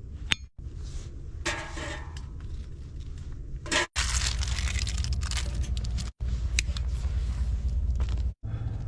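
Clicks, clinks and scraping from tending a homemade heating stove, over a steady low rumble. The sound breaks off abruptly several times.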